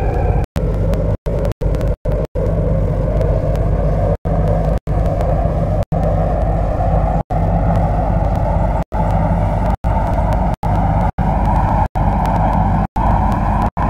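MTR C-Train electric multiple unit pulling away and accelerating: a steady low hum under traction motor and running noise that rises slowly in pitch as the train gathers speed. The sound cuts out for an instant many times.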